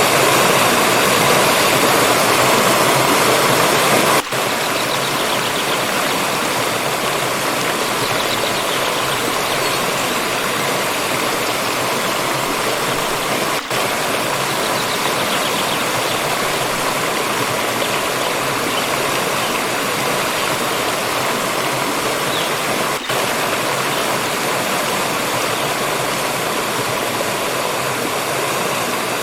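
Water stream flowing steadily, a continuous rush of running water. It drops out for an instant three times: about four seconds in, near the middle, and about three-quarters through.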